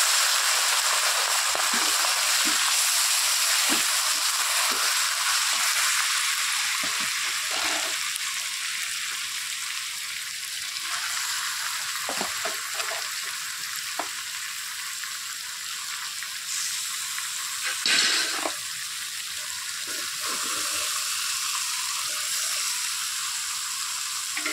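Spice-marinated mutton and onions sizzling in hot oil in a metal kadai just after going in, with a metal spatula scraping and knocking against the pan as it is stirred. The sizzle is strongest at first and eases off a little, with one louder scrape about two thirds of the way through.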